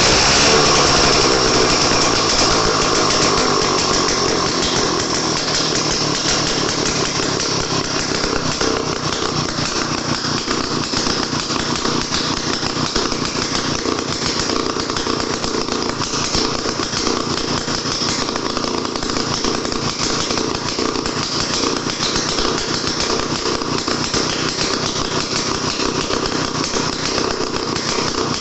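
Small single-cylinder two-stroke engine of a Daihatsu Midget DKA running. Its revs fall over the first couple of seconds, then it runs on steadily with a fast, even buzz of firing pulses.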